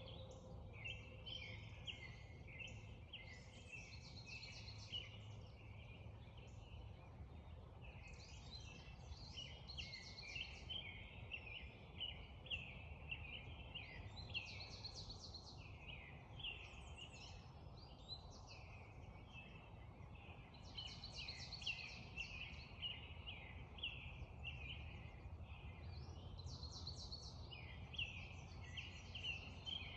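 Spring dawn chorus: many songbirds singing at once in dense, overlapping phrases, with no pause. A steady low rumble lies underneath.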